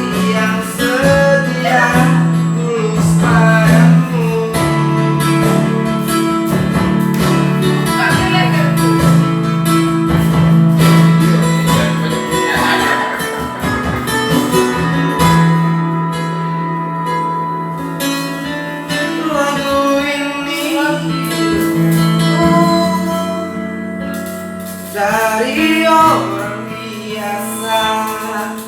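Karaoke song playing loudly through a karaoke sound system: a guitar-backed track with a singing voice carrying the melody.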